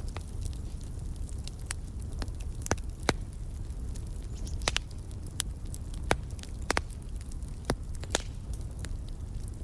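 Wood fire crackling: irregular sharp pops and snaps over a steady low rumble, with several louder pops through the middle.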